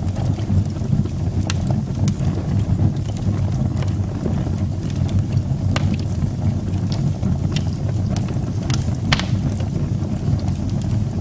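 Wood fire burning in a fireplace: a steady low rumble with scattered sharp crackles and pops, the loudest pop about nine seconds in.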